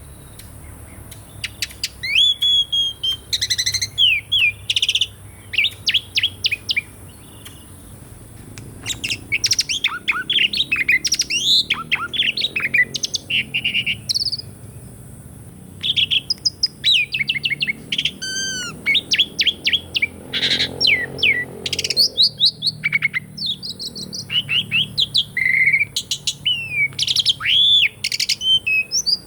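Pied starling (jalak suren) singing a varied song of rapid whistles, chirps and notes that rise and fall, in bursts with short pauses.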